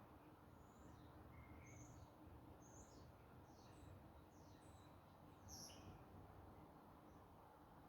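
Near silence with faint birds chirping: about a dozen short, high chirps scattered through, the loudest about two-thirds of the way in, over a faint steady hum.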